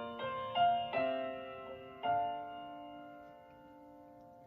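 Piano intro to a song: a few chords struck in the first two seconds, the last one left to ring and slowly die away.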